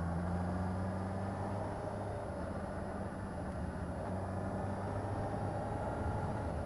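Motorcycle engine running steadily under way, a constant low drone with a rush of wind noise over it.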